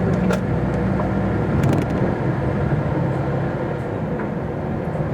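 Diesel engine of a MAN TGX articulated truck running, heard from inside the cab as a steady low hum, with a few sharp clicks or rattles.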